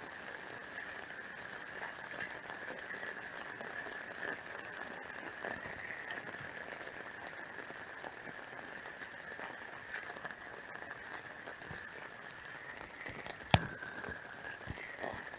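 Heavy rain falling steadily on surfaces, with scattered drop ticks. One sharp tap near the end.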